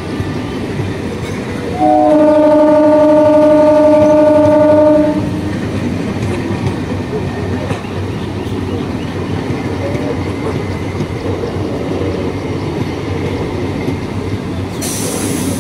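EMU local train sounding its horn: a brief higher note, then one steady blast of about three seconds a couple of seconds in. Under it runs the steady rumble and rail clatter of the train running along the track. A sudden hiss starts near the end.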